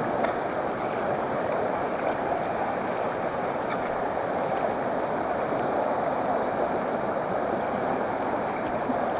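Steady rushing of water at a waterfall, an even unbroken roar.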